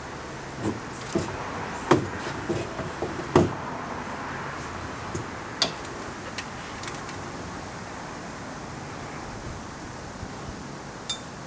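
A few irregular knocks and clicks, bunched in the first few seconds with a couple more later, over a steady background hiss.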